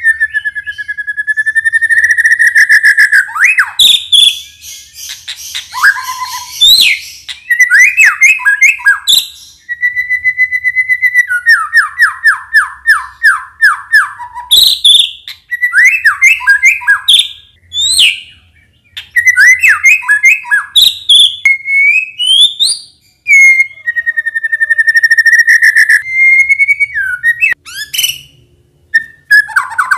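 White-rumped shama (murai batu) singing a long, varied song. It mixes clear whistled notes held steady, fast runs of repeated notes, rising sweeps and high chattering notes, with a few brief pauses.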